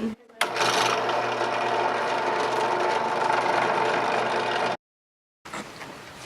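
A machine running with a steady hum, cutting off abruptly about five seconds in.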